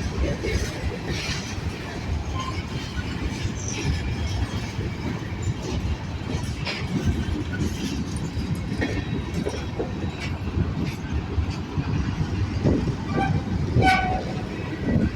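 A long freight train's cars rolling past, a steady rumble with irregular clacks and knocks from the wheels on the rails. A brief pitched tone sounds near the end.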